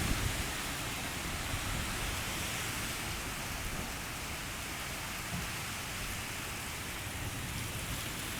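Heavy rain falling steadily, an even, continuous hiss of rain on surfaces.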